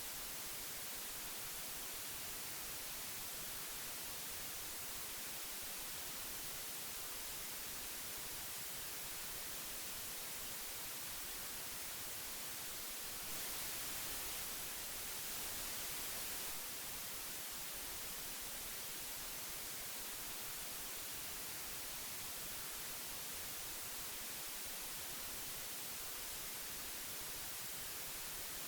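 Steady hiss of old magnetic tape, strongest in the high end, growing slightly louder for about three seconds near the middle.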